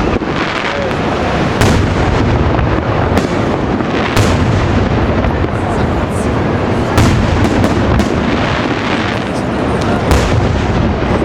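Fireworks display: a continuous barrage of aerial shell bursts and crackle, with sharp bangs coming every second or so throughout.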